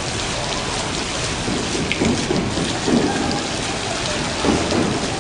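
Digital water curtain: drops released by electronically controlled valves falling and splashing steadily, sounding like heavy rain.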